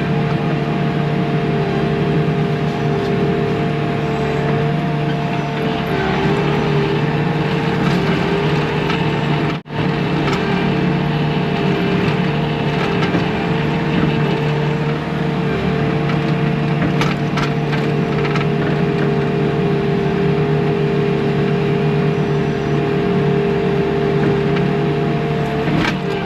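Bobcat T630 compact track loader's diesel engine running steadily, with a steady high whine over its drone. The sound cuts out for an instant about ten seconds in.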